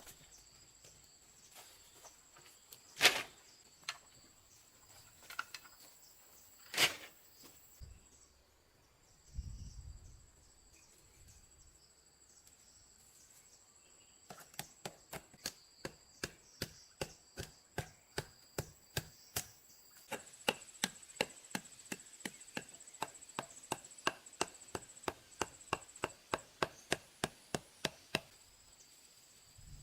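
Blade chopping into wood: two single heavy strokes in the first seven seconds, then from about halfway a fast steady run of strokes about three a second, getting louder, which stops shortly before the end. Insects drone steadily throughout.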